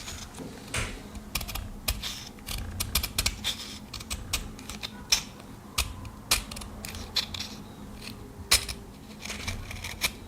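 Pocket knife blade drawn through the ceramic-disc slot of a handheld knife sharpener: irregular light clicks and scrapes of steel on ceramic, the discs turning only a little.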